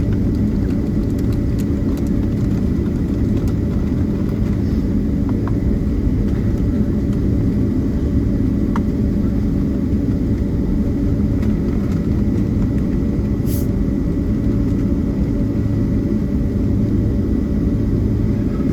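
Steady low rumble inside the cabin of a Boeing 767-300ER taxiing after landing, its engines at idle, with a steady hum running under it.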